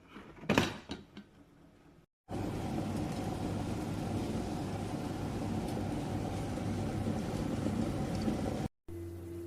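A single sharp click about half a second in, then a glass electric kettle heating water: a steady rumbling noise with a low hum that cuts off suddenly near the end.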